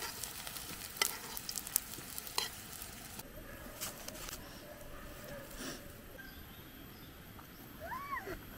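Tuna spring rolls (lumpiang shanghai) frying in hot oil in a metal pan: steady sizzling, with sharp clicks of a metal spoon against the pan. About three seconds in the sizzling cuts off, leaving a quieter background with a short rising-and-falling tone near the end.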